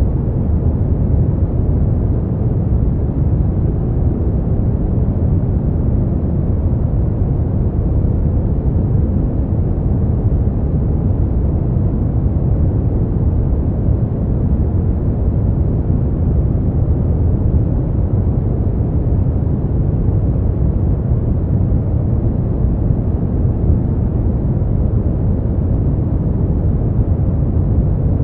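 Steady, deep rushing noise from a sleep-noise track labelled white noise. Its weight lies low, with no hiss in the high end, so it sounds more like brown noise, and it does not change at all.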